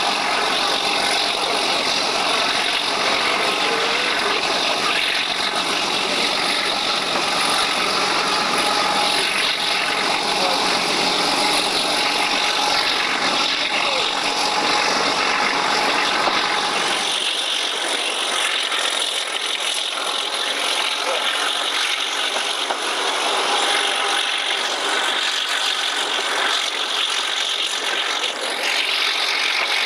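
Moving diesel-hauled train recorded from an open carriage window, with the Alco RS-8 locomotive working ahead. The engine sound mixes steadily with the rattling clatter of the running gear and wind rush. A little over halfway through, the low rumble drops away and leaves a thinner, hissier sound.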